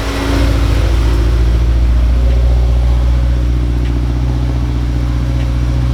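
Subaru BRZ's 2.0-litre flat-four boxer engine running at a steady idle just after a cold start on E85 fuel.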